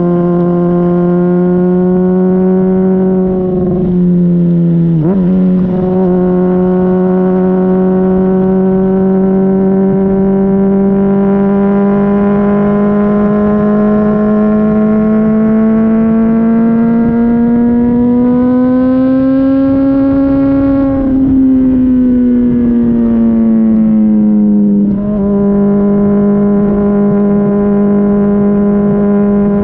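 Honda CBR600RR inline-four running through a Yoshimura RS-5 exhaust, heard right at the muffler while riding. The engine note dips in pitch twice around four to five seconds in, climbs slowly for about fifteen seconds, drops back over the next few seconds and then holds steady.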